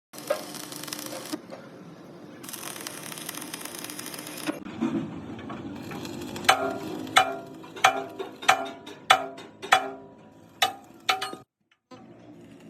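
Two bursts of steady crackling hiss from welding on the steel bucket plate. Then a run of about nine sharp hammer blows on steel, each ringing briefly, spaced a little over half a second apart.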